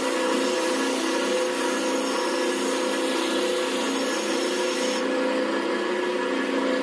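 Electric power tool running steadily with a hiss of metal being worked. The hiss drops away about five seconds in while the motor keeps running.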